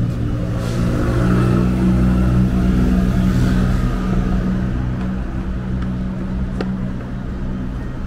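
A motor vehicle's engine running close by on the street, loudest in the first few seconds and then easing off, with a short click late on.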